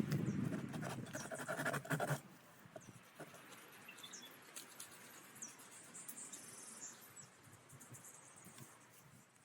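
A dense noise with many clicks, like rustling or crunching, cuts off suddenly about two seconds in. After it comes faint outdoor forest ambience with scattered short, high chirps from small birds or insects.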